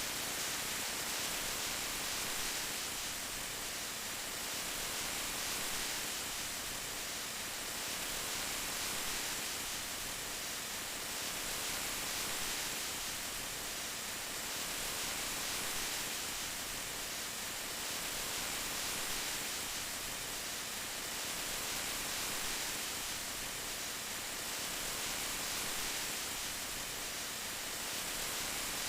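Steady rain: an even, bright hiss that swells and eases gently every couple of seconds.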